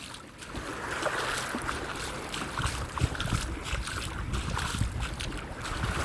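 Wind buffeting the microphone in uneven low gusts, over a steady wash of beach surf.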